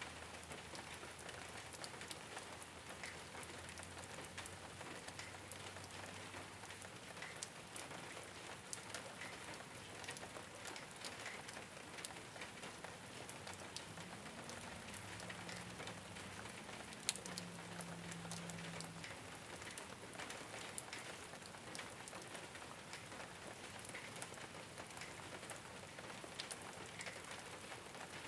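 Steady rain falling on a rooftop, with many individual drops ticking sharply. A faint low hum sits underneath at the start, and a faint wavering low tone comes and goes in the middle.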